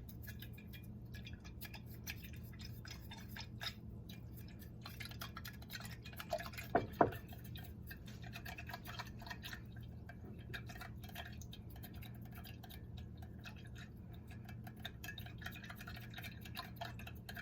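Stirring salt into warm water to dissolve it for a pickling brine: a steady run of light clinks and taps of the utensil against the container, with two louder ringing clinks about seven seconds in.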